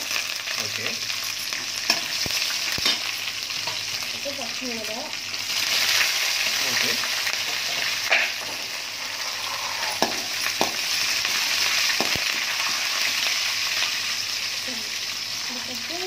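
Tempering of dals, chilies and curry leaves frying in hot oil in a stainless steel kadai: a loud, steady sizzle that grows louder about five seconds in. It is stirred with a perforated metal ladle that clicks against the pan a few times.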